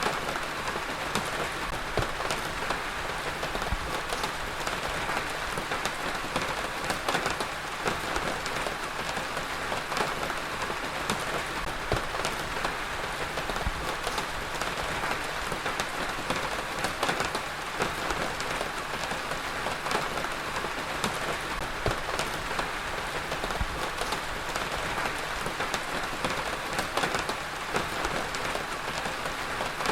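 Heavy rain falling steadily on a surface: a dense, even hiss with many individual drop impacts ticking through it.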